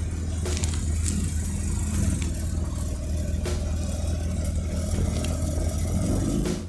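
Rally car engines running with a deep, steady low rumble; near the end one engine revs up with a rising pitch.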